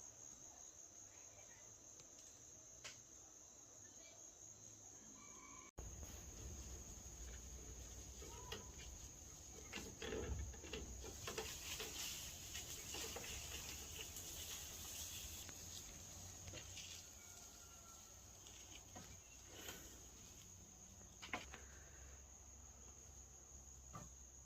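Insects, crickets or similar, chirring in one steady high-pitched drone. There are scattered faint clicks and calls. About six seconds in there is a brief dropout, and a low rumble joins after it.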